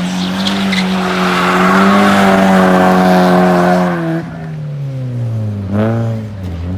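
A car engine is held at high revs with tyres squealing through a drift or donut for about four seconds. Then the throttle comes off and the revs fall, with one quick throttle blip near the end before it settles toward idle.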